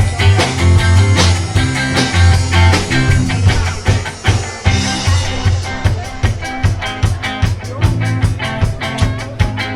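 Live rock band playing an instrumental passage: drum kit, a strong bass line and guitar, with no vocals. About halfway through, the drums settle into a faster, even beat.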